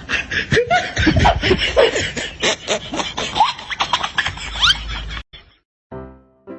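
A person laughing in loud, breathy bursts that cut off suddenly about five seconds in, followed by a short pitched snippet after the cut.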